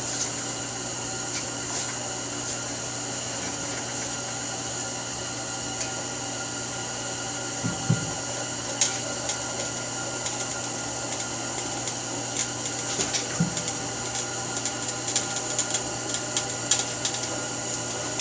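Propane torch burning with a steady hiss, heating the tire rubber to help it onto the rim. Scattered light clicks and knocks come more often in the second half.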